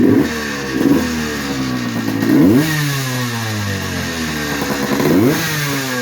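Suzuki PE175's single-cylinder two-stroke engine, freshly rebuilt with a new piston and rings, revved in four quick throttle blips, each sharp rise in pitch followed by a slow fall back toward idle. Running crisp just after starting on one kick.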